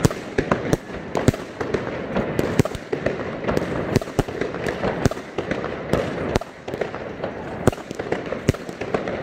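Many fireworks and firecrackers going off all around: sharp bangs at irregular intervals, several a second at times, over a continuous crackling din.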